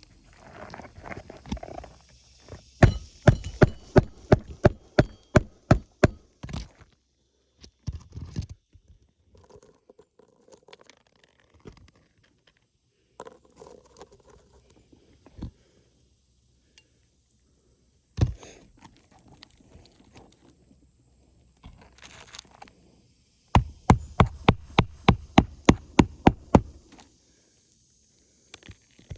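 Hammer blows on an asphalt shingle roof, in two runs of quick strikes about three a second, with single knocks and light scraping between.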